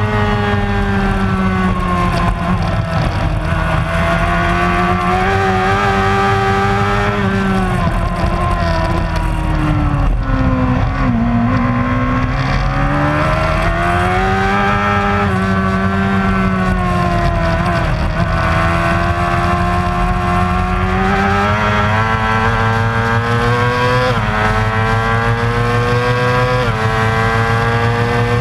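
Racing motorcycle engine running continuously at varying revs. The pitch rises and falls slowly, with several sudden jumps in pitch near the end as gears change.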